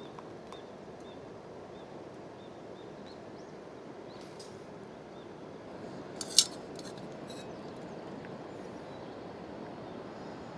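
Steady rush of river water, with a faint high chirp repeating about twice a second for the first few seconds. A few sharp clicks come about four to seven seconds in, with one loud snap near the middle.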